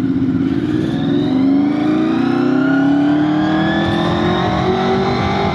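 2001 Honda VFR800FI's V4 engine pulling under load as the motorcycle accelerates, its pitch climbing slowly and steadily through one gear, with wind rushing over the microphone.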